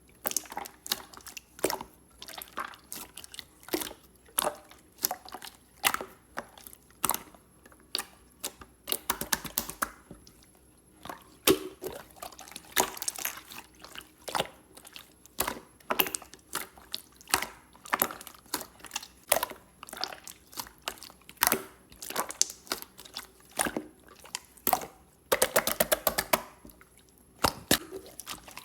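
Clear slime being squeezed and pressed by hand, making a stream of sharp, wet clicks and small pops. There are two stretches of quick crackling, about nine seconds in and again near the end.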